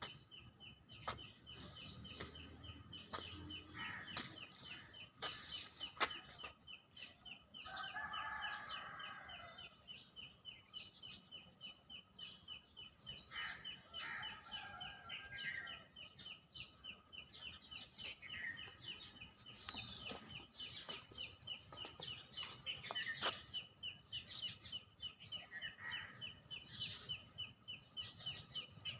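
Birds chirping and calling, with a steady, fast-pulsing high trill running underneath and short chirps scattered throughout. A longer, fuller call comes about eight seconds in and again around fourteen seconds.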